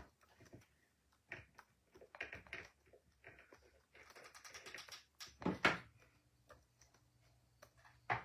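Scattered light clicks and taps, with a louder knock about five and a half seconds in, followed by a faint steady hum.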